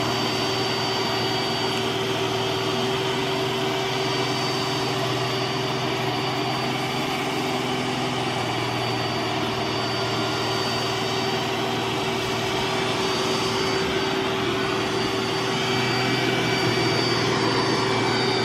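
iRobot Roomba s9+ robot vacuum running at max power while picking up spilled rice, a steady motor and fan noise with a constant hum and a thin high whine over it.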